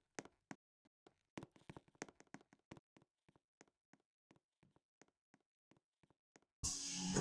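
Scattered faint clicks and taps, then about six and a half seconds in a sudden loud rush of Moscow Metro train noise sets in and carries on.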